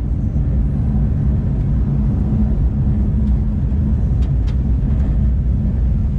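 Porsche 911 GT3's naturally aspirated flat-six engine and exhaust running steadily on the move, heard from inside the cabin with a low road rumble.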